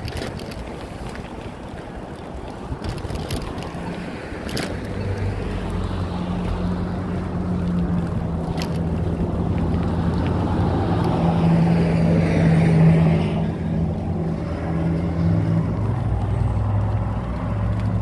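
Wind rushing over the microphone of a camera on a moving bicycle, with a few knocks early on. From about four seconds in, a motor vehicle's steady engine hum builds up, is loudest a little past the middle, and then eases off.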